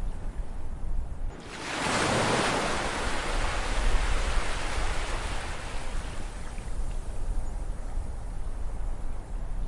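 Ocean surf: a wave breaks about a second and a half in, a surge of hiss that slowly fades as it washes out, over a steady low rumble of the sea.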